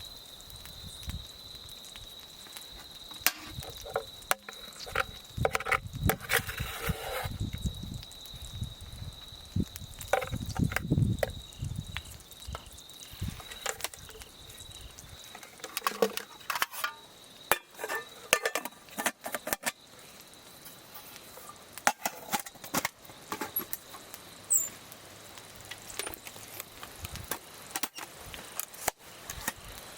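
A steady, high-pitched insect trill that fades out about halfway through, with many irregular clicks, knocks and clinks over it.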